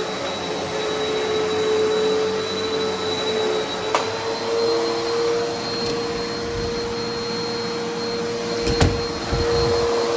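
Eureka Altima upright vacuum cleaner running over long-unvacuumed carpet with a steady motor whine, crunchy as it picks up grit. Two sharp clicks, about four seconds in and near the end.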